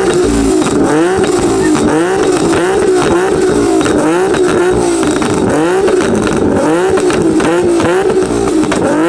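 Car engine revved hard on a two-step launch-control limiter. The revs rise and fall in a steady rhythm a bit more than once a second, with sharp crackling pops throughout.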